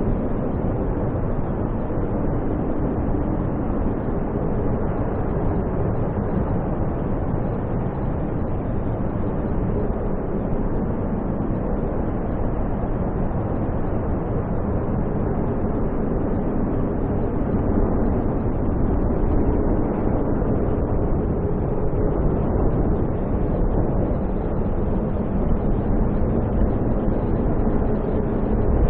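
Steady roaring wind of a heavy snowstorm, a dense, unbroken rumble.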